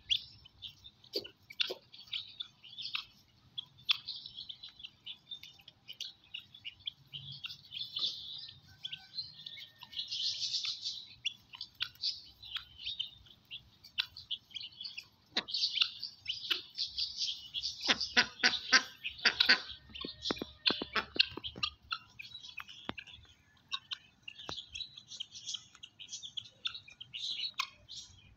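Birds chirping: many short, high calls overlapping. About eighteen seconds in, a run of sharp clicks lasts for a few seconds and is the loudest part.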